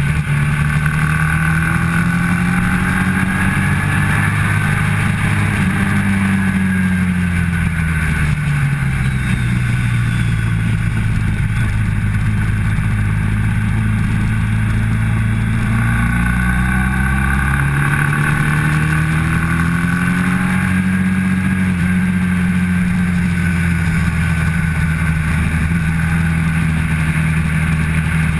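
Motorcycle engine heard from on board at track speed. Its pitch falls about a third of the way in, holds low through a leaned-over bend, and climbs again as the throttle opens, over a steady rush of wind.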